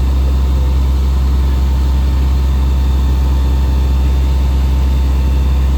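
Fire engine's motor running steadily with a deep, even hum.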